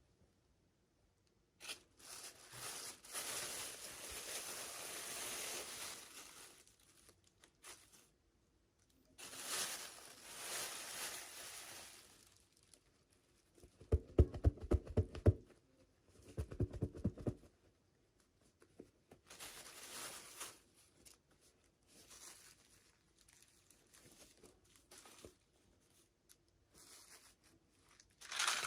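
Packaging being torn open and crinkled in several bouts, with two short bursts of rapid crackling clicks around the middle.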